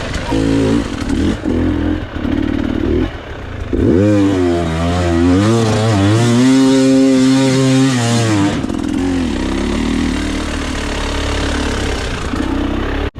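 KTM EXC 300 two-stroke enduro engine blipped on and off the throttle. About four seconds in it revs up and is held at high revs for several seconds, then backs off to a lower, uneven run.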